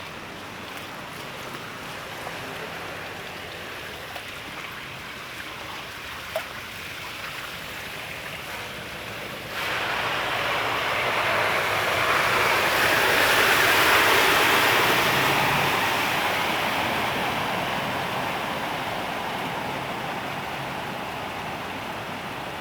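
A steady rush of rain and floodwater. About ten seconds in it turns suddenly louder and hissier, swells for a few seconds, then slowly dies away.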